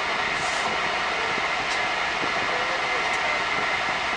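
Steady running noise inside a passenger train carriage as it rolls slowly through a station, an even rumble and hiss with a few faint ticks.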